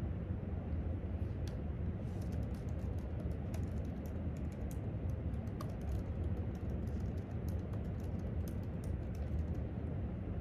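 Typing on a laptop keyboard: a run of quick, irregular key clicks from about two seconds in until near the end, over a steady low rumble of room noise.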